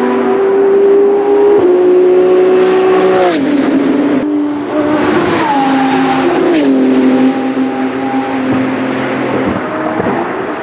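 BMW M4 GT3 race car's twin-turbo straight-six running hard, its engine note dropping in pitch in about four distinct steps, with a short sharp crackle at two of them. It fades a little after about seven seconds.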